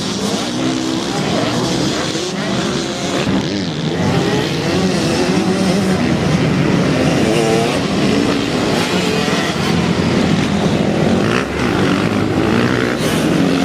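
Several motocross bikes' engines running at once, their pitch rising and falling as they rev up and ease off.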